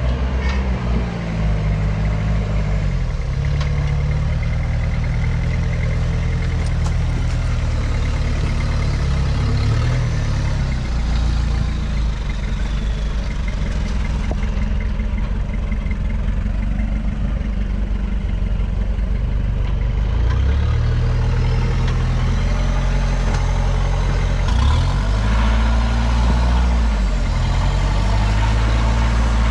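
Four-wheel-drive engine pulling under load, low and steady, with the revs climbing and dropping back several times, most clearly near the end.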